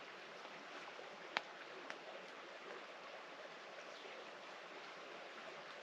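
Small campfire burning with a faint steady hiss and two sharp crackles, about a second and a half and two seconds in.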